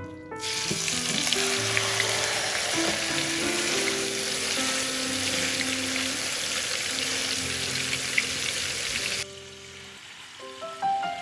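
Butter and oil sizzling in a frying pan with a flattened whole chicken frying in it, a loud steady hiss with scattered crackles. The sizzle cuts off suddenly about nine seconds in.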